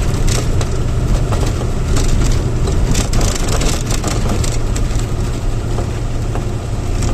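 A truck's engine running with a steady low rumble, with irregular crackling and rattling noises over it.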